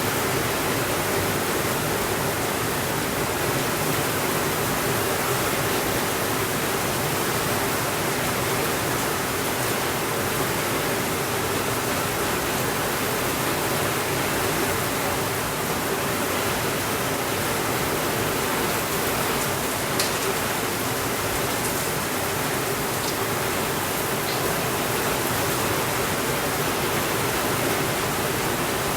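Steady rainfall, an even rushing hiss with no let-up, and a single faint click about twenty seconds in.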